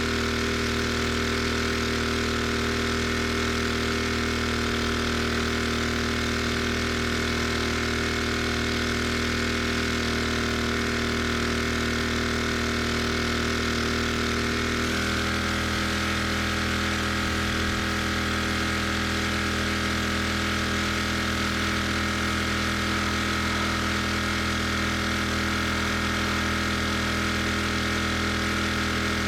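Gasoline pressure washer engine running steadily. Its tone changes suddenly about halfway through, then holds steady again.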